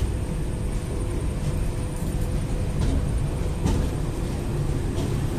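Train running over the tracks, heard from inside the coach through an open window: a steady low rumble of wheels on rail with a few sharp clicks, likely from rail joints.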